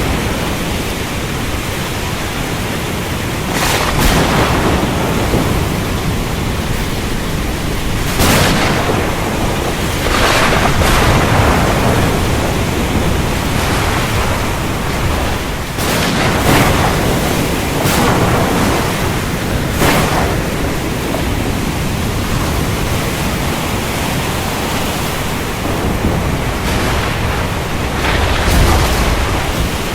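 Steady downpour of heavy rain, with thunder cracking out of it every few seconds, about seven times.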